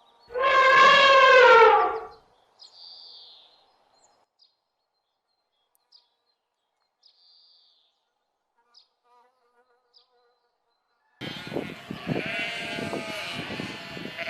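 Animal calls: one loud drawn-out call falling in pitch at the start, a few faint short chirps, then from about eleven seconds in many overlapping animal calls with sharp knocks.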